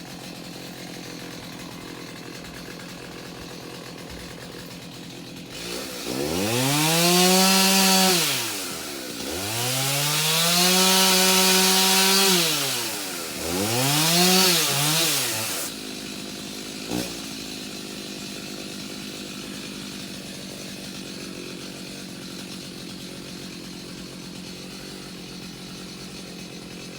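Chainsaw cutting tree limbs. Three times the engine revs up, holds at full speed while cutting, and falls back: two longer cuts, then a shorter one. Before and after, a steady engine idle.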